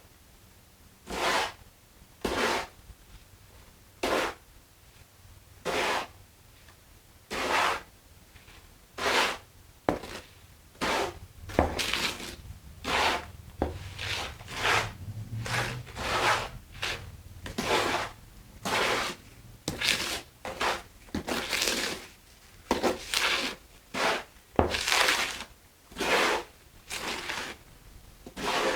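Mortar being mixed by hand, a tool scraping and rubbing through the stiff mix in repeated strokes. The strokes come about one every second and a half at first, then quicker and closer together from about ten seconds in.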